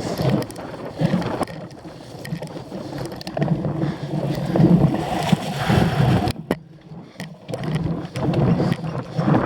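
Wind buffeting the microphone over the rumble of a cyclocross bike riding over rough ground, with scattered knocks and rattles. The noise surges unevenly and eases briefly about two thirds of the way through.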